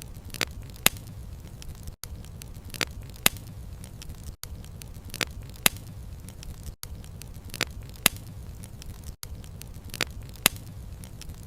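Crackling fire: a steady low rumble of flames with sharp wood pops, two or so every couple of seconds. The same short stretch repeats about every two and a half seconds, with a brief gap at each seam, as a looped recording.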